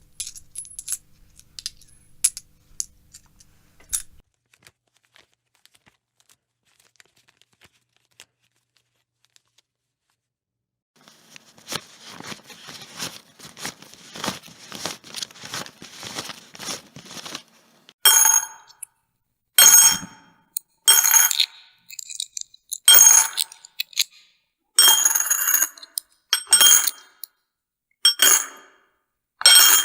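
Coins: a few faint clicks, then after a quiet gap several seconds of continuous jingling and rattling, followed by a run of about nine sharp, bright clinks of coins being dropped, roughly one every second and a half.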